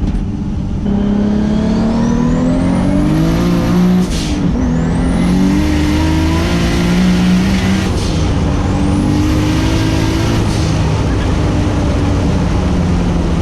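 Toyota 2JZ-GTE turbocharged straight-six of a 900 hp Lexus SC300 at full throttle, heard from inside the cabin: the revs climb three times with a rising turbo whistle, each pull broken by a gear change with a short rush of air, about four, eight and ten and a half seconds in.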